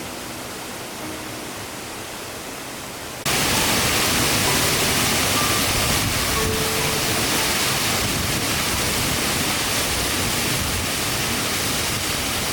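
Steady rushing roar of a large waterfall, cutting in suddenly about three seconds in after the last notes of guitar music fade out over a quieter hiss.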